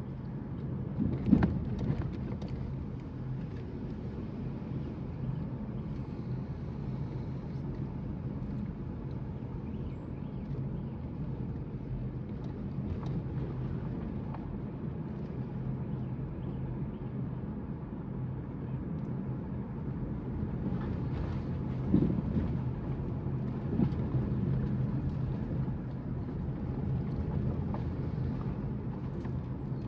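Car driving, heard from inside the cabin: a steady low engine and road hum, with a couple of short thumps, one about a second in and a stronger one about two-thirds of the way through.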